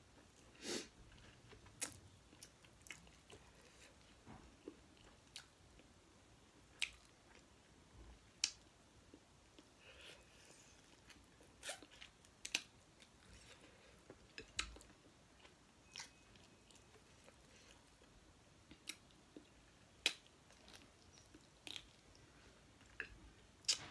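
Close-up mouth sounds of a person chewing a mouthful of rice and curry eaten by hand: scattered wet clicks and smacks, a few every couple of seconds.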